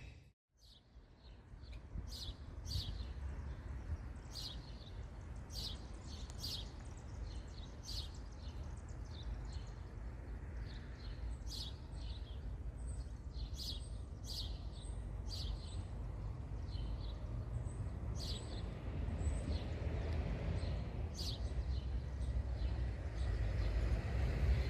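Small birds chirping in short calls, about one a second, over a steady low outdoor rumble that grows louder near the end.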